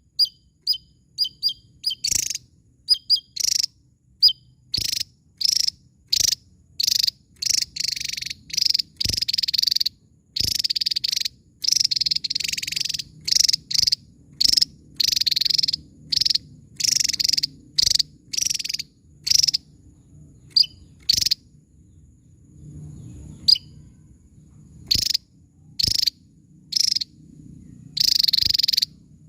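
Javan tesia singing: a quick run of sharp, high thin notes, then loud, harsh bursts of song repeated about once or twice a second, some drawn out longer, with a short lull near the end.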